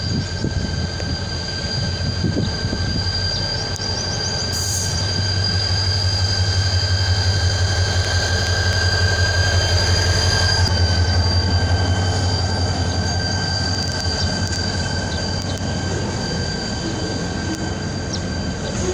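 Diesel-hauled freight train of tank wagons passing close by. The locomotive's deep engine drone swells as it passes beneath about halfway through, then eases as the wagons roll past, over a steady high-pitched wheel squeal.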